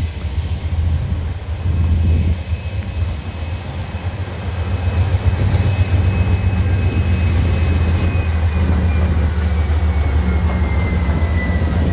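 Norfolk Southern diesel-electric freight locomotives rumbling past as the train comes out of the tunnel, the sound growing louder about five seconds in as the lead units draw alongside. A faint high whine slides down in pitch near the end.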